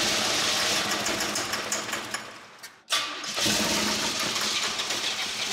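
The 1988 Chevrolet Camaro IROC-Z's V8 running rough with a knock at wide open throttle on starting fluid, a knock the owner takes for a rod knock. About halfway through it fades almost to a stall, then comes back suddenly and keeps running.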